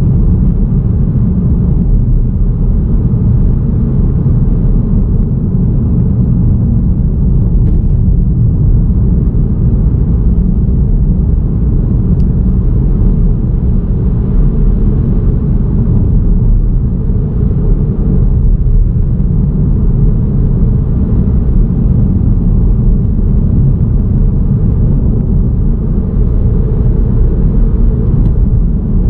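Steady, loud low rumble of a car driving at a constant pace along a road: tyre, road and wind noise.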